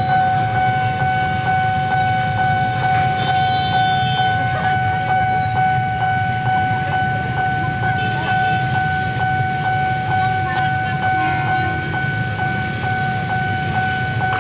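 Railway level-crossing warning alarm ringing: a steady piercing tone with a quick repeating strike about two or three times a second. Under it is a continuous low rumble of passing traffic.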